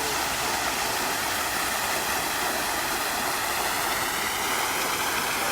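A steady rushing hiss with no changes or distinct events.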